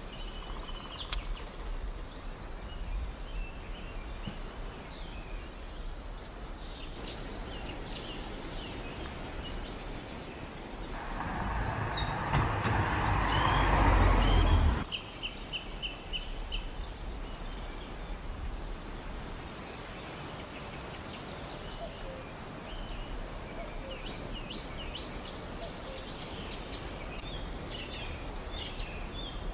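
Birds chirping over a steady outdoor background hiss. About halfway through, a louder rushing noise swells for a few seconds and then cuts off abruptly.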